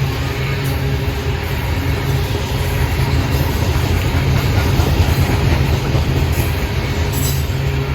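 Freight train passing, a steady low rumble that holds throughout.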